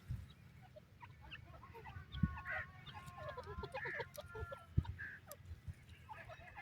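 Francolins (teetar) calling: several overlapping harsh, clucking calls and held notes. Two dull thumps come through about two seconds in and again near five seconds, over a low rumble.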